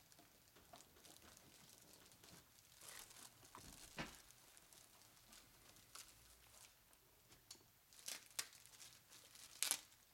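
Faint rustling and crinkling of packaging being handled and pulled open, with scattered sharper crackles and clicks, the loudest just before the end.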